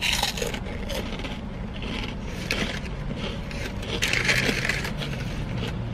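Crunchy chewing of fried cinnamon snacks close to the microphone, with a paper food bag crinkling, loudest about four seconds in as a hand reaches into it.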